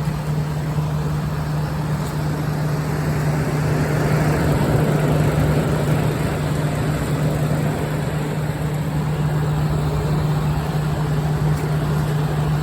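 General Electric Thinline window air conditioner running on high cool: the compressor's steady low hum under the even rush of the fan.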